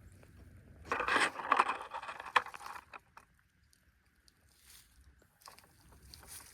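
A burst of rustling and scraping with sharp clicks about a second in, lasting about two seconds, then a few faint scattered clicks.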